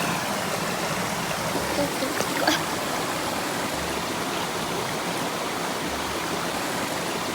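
River water flowing, a steady even rush, with one brief click about two and a half seconds in.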